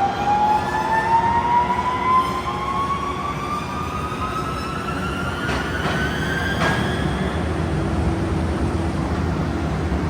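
A machine running with a steady low rumble and a whine that rises slowly in pitch, fading out about seven seconds in. Two short clicks about a second apart midway.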